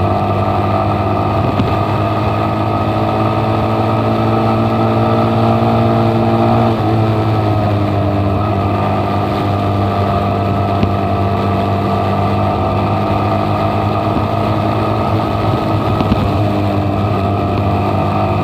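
Motorcycle engine running steadily under way, its pitch easing down a little about seven seconds in and then holding even.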